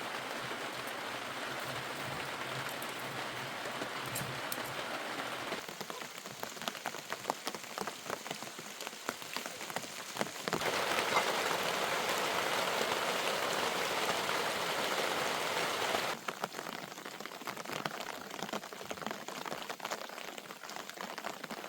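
Rain falling, in sections that change abruptly: an even hiss of steady rain alternates with closer patter of individual drops hitting surfaces, and the loudest, heaviest stretch comes in the middle.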